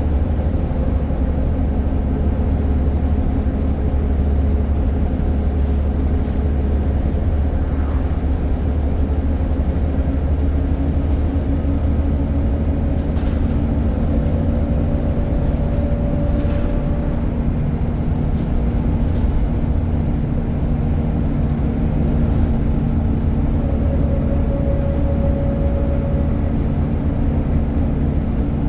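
Scania N94 single-deck bus under way, its engine running with a steady low drone.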